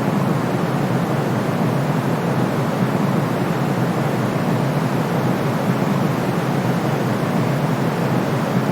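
Sleep-aid white noise: a steady, unchanging rush with no breaks or events, deep and muffled, more rumble than hiss.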